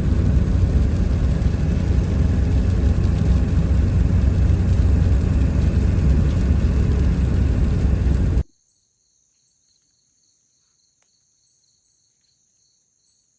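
Loud, steady rumbling noise, heaviest in the low end and much like a vehicle running, that cuts off sharply about eight seconds in. After it there is near quiet with faint, steady high insect calls.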